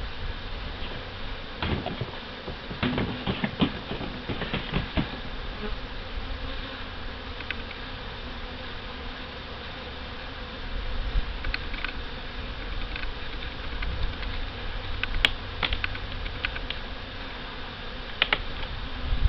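Honey bees buzzing in a steady drone around an opened, crowded hive. Scattered sharp clicks and knocks come in two clusters, one a couple of seconds in and one near the end.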